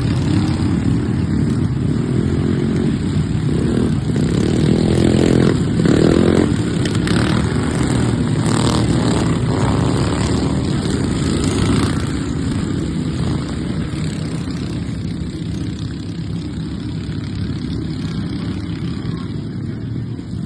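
Racing riding lawnmower engines running hard, one rising in pitch as it revs about four to six seconds in; the sound eases off a little after about twelve seconds.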